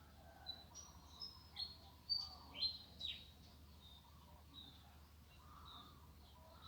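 Small birds chirping: a quick run of sharp, high chirps in the first three seconds, several sliding down in pitch, followed by fainter scattered calls.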